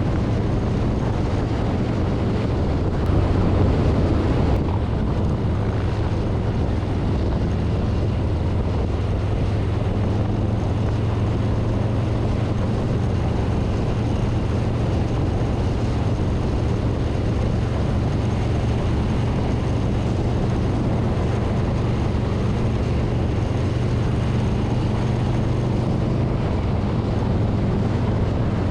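Harley-Davidson Street Bob's V-twin engine running steadily at cruising speed, with wind rushing over the handlebar-mounted microphone. It gets briefly louder about three to four seconds in.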